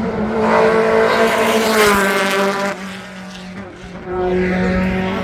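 Race car engine passing at speed in a hill-climb race, its note loud for about two seconds and dropping in pitch as it goes by. It fades, then a second engine note rises about four seconds in.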